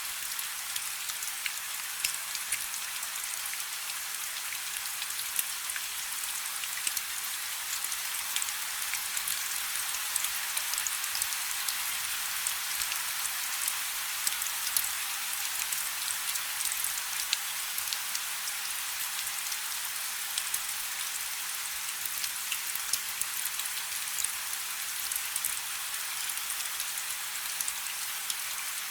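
Light rain falling: a steady hiss with many small drop ticks scattered through it.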